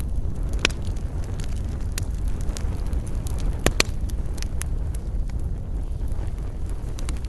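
Wood campfire burning, crackling with scattered sharp pops, the loudest pair about three and a half seconds in, over a steady low rumble.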